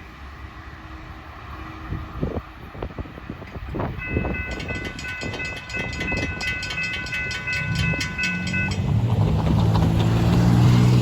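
A train approaching: wheel clicks on the rails, then a warning bell ringing rapidly for about four seconds. Near the end the locomotive's diesel engine comes in, growing louder and rising in pitch.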